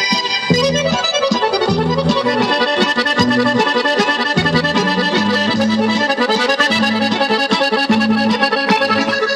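Accordion music: a traditional tune, its melody running over regularly pulsing bass notes.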